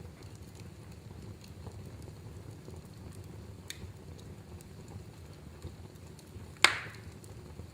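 Wood fire burning in a fireplace: a steady low rumble with scattered faint crackles, and one loud, sharp pop about six and a half seconds in.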